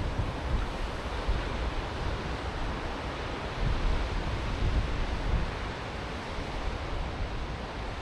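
Ocean surf washing continuously onto a beach, swelling a little about halfway through, with wind buffeting the microphone.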